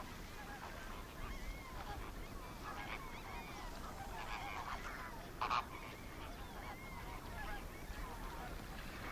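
A flock of flamingos calling, many short calls overlapping, with one louder call a little past halfway.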